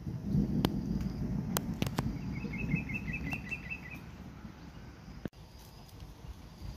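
Outdoor ambience with a low, uneven rumble and a few sharp clicks in the first two seconds. About two seconds in, a small bird gives a quick run of high chirps lasting under two seconds.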